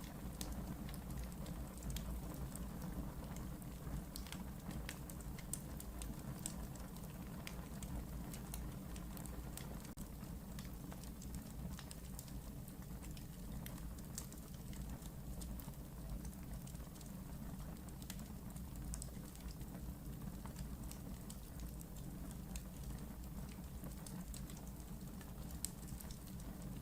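Wood fire burning in a fireplace: a steady low rumble of flames with irregular small crackles and pops from the burning wood.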